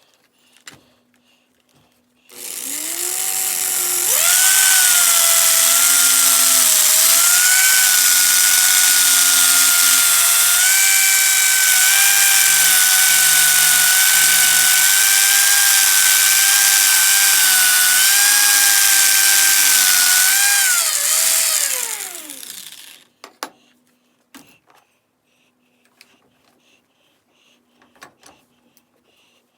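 An electric motor spins up with a high whine, runs steadily for about twenty seconds, then is switched off and winds down with a falling pitch.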